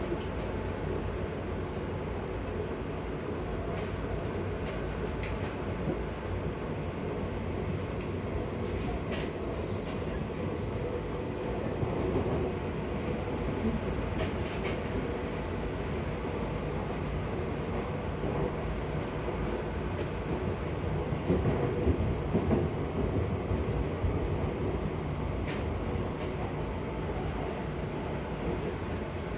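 Seibu 6000 series electric train running, heard from inside the passenger car: a steady rumble of wheels on rail with a few faint clicks. It swells louder briefly about twelve seconds in and again for a few seconds past the two-thirds mark.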